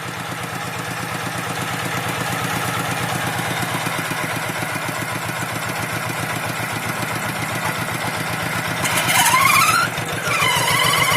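Hand tractor's engine running steadily with an even, fast beat, growing a little louder. Near the end a high wavering squeal rises and falls over the engine.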